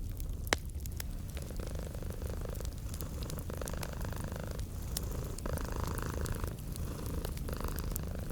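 Domestic cat purring steadily, with a wood fire crackling: scattered sharp pops and ticks, one louder pop about half a second in.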